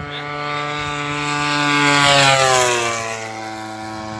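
Petrol-engined radio-controlled model airplane flying past at full throttle. Its engine and propeller note grows louder, peaks about two seconds in, then falls in pitch as the plane passes and moves away.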